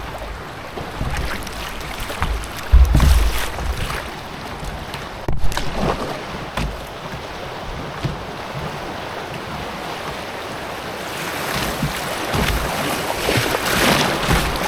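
River water rushing and splashing around a canoe under way, with gusts of wind rumbling on the microphone. The splashing swells louder a few times.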